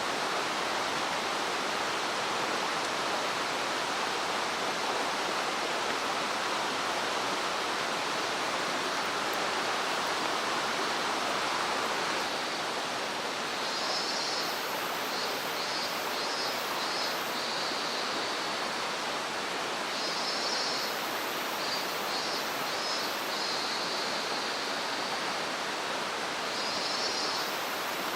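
A mountain stream's water rushing steadily. About halfway through, high chirping calls join in, in repeated bursts a few seconds apart.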